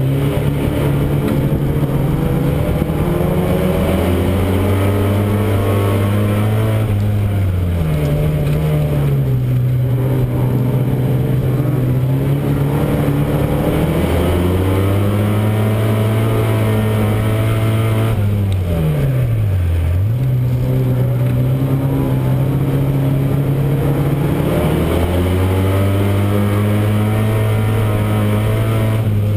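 Euro Rod racing car's engine heard from inside the car while it laps a short oval, its note rising and falling in a repeating cycle as it is worked through the straights and bends. About twenty seconds in the revs drop sharply and climb straight back.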